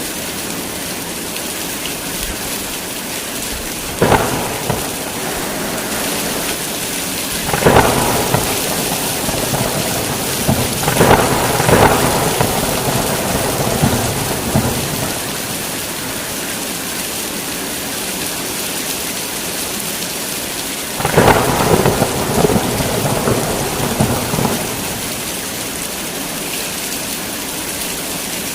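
Heavy rain falling steadily, broken by four claps of thunder about 4, 8, 11 and 21 seconds in, each a sharp crack followed by a rumble; the last two roll on for several seconds.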